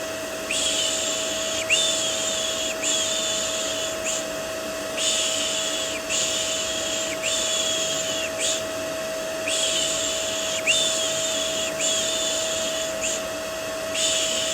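Shushing ('shh') sounds repeated about once a second, each a high hiss lasting close to a second, laid over a steady vacuum cleaner hum as soothing white noise for babies.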